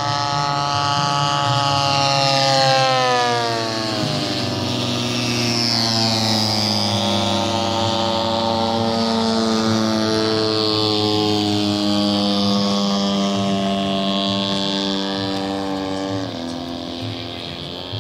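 Radio-controlled model airplane engines running in flight. The pitch falls over a couple of seconds about three seconds in, then holds steady, with a small drop near the end.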